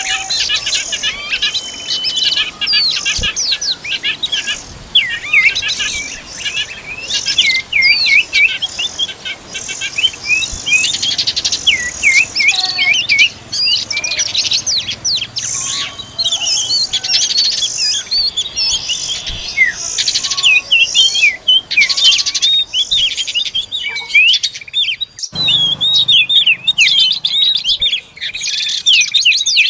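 Oriental magpie-robins chirping and calling in a rapid, continuous stream of high, sliding notes.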